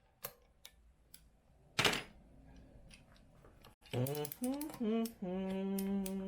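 A few light tool clicks and one sharp knock about two seconds in, as the clutch spring bolts are tightened on a two-stroke motocross engine. In the second half a man vocalizes without words, ending in a held sung note.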